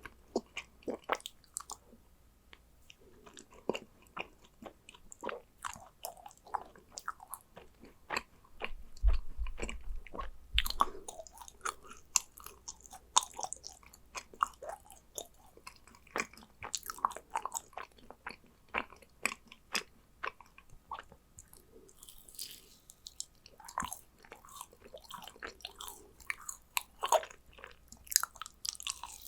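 Close-miked chewing and biting of yakgwa, a dense Korean honey cookie: many small irregular mouth clicks and smacks, with a few low thumps about nine seconds in.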